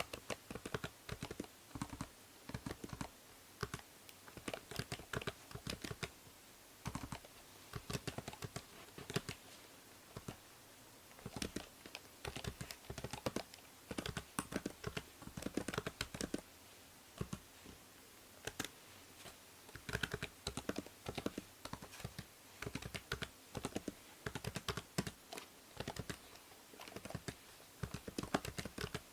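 Typing on a computer keyboard: quick runs of keystroke clicks broken by short pauses. A steady faint hiss from the binaural microphone sits under the keystrokes.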